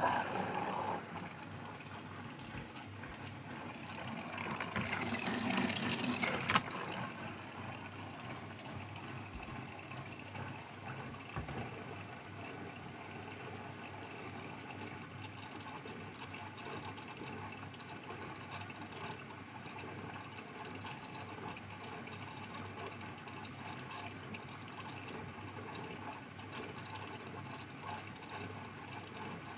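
Grundig washing machine taking in water: water rushes into the machine, louder for a few seconds near the start, then runs in steadily.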